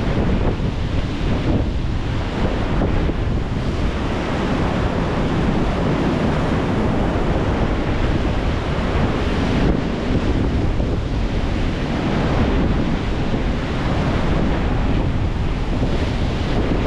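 Rough sea waves breaking and surging in a strong wind, with heavy wind buffeting on the microphone.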